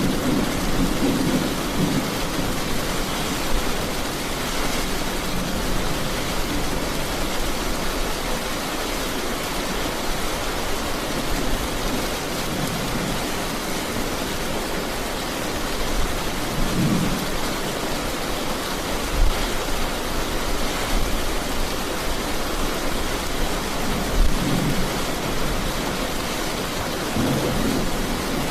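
Heavy rain falling steadily, with a few low rumbles of thunder rising and fading now and then.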